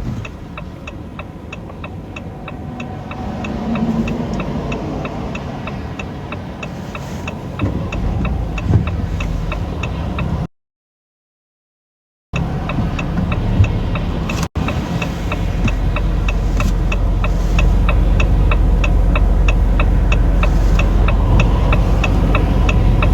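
A car's turn signal ticking steadily inside the cabin while the car waits to turn onto a main road, over the engine running. About two-thirds of the way through the engine gets louder as the car pulls out. The sound cuts out completely for about two seconds near the middle.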